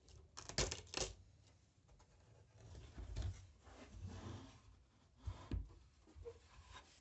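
Faint handling sounds: a few light knocks and clicks, two close together about a second in and two more near the end, with soft rustling between.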